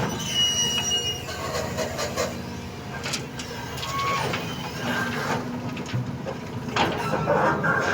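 Doosan 220 excavator's diesel engine running steadily while it works, with a brief high squeal in the first second and scattered knocks and clanks.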